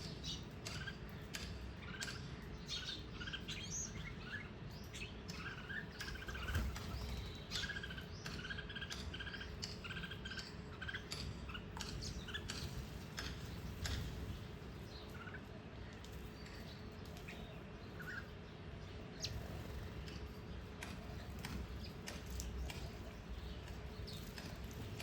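Small garden birds chirping, a run of short repeated chirps thickest in the first ten seconds and then thinning out, with scattered sharp ticks.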